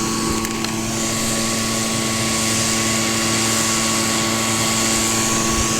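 Small gas engine of a gold-prospecting dry washer running steadily at constant speed: an even engine hum with an airy hiss over it.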